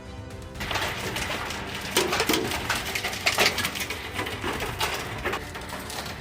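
Hailstones pounding down, a dense patter of sharp clicks and knocks over a steady hiss, starting about half a second in.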